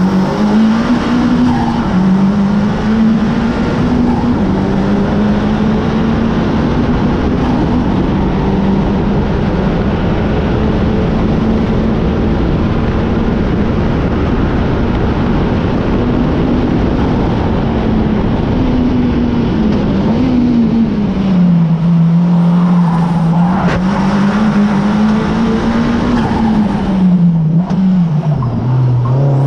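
2017 Honda Civic Type R's turbocharged 2.0-litre four-cylinder running hard at high revs under dense road and wind noise. The engine note holds steady for long stretches, drops in pitch about 21 seconds in and again near the end, then climbs.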